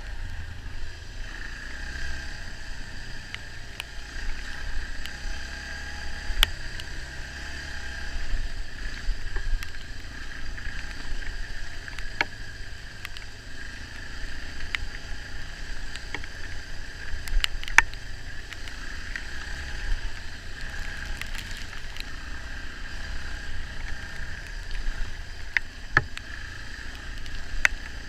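Dirt bike engine running at low speed, its loudness rising and falling with the throttle, with frequent short knocks and rattles as the bike goes over rough trail.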